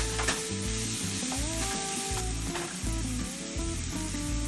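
Chopped garlic and sliced white mushrooms frying in oil in a pan, a steady sizzle while being stirred.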